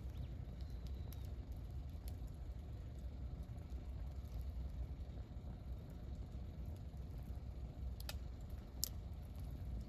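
Wood campfire burning with a steady low rumble and a few sharp crackling pops, the loudest near the end.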